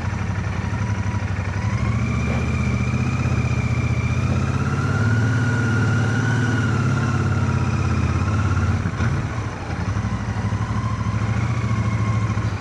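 Royal Enfield Shotgun 650's parallel-twin engine running steadily at low road speed, heard through a microphone inside a full-face helmet. A faint wavering whistle sits above the engine for several seconds.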